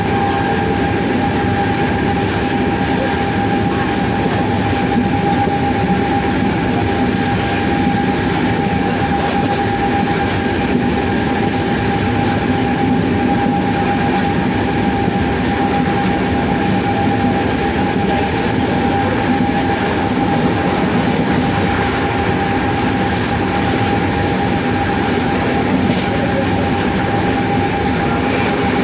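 WAP-7 25 kV AC electric locomotive running, its traction motors giving a steady high whine at constant pitch over the rumble of the running gear.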